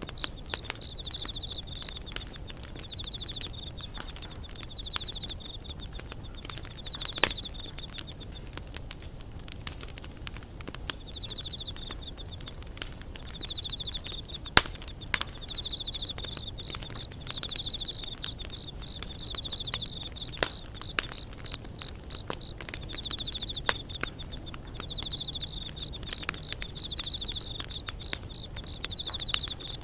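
Wood campfire crackling with irregular sharp pops, a few of them louder. Insects chirr in fast pulsing bursts over it, with a thin steady high tone alongside.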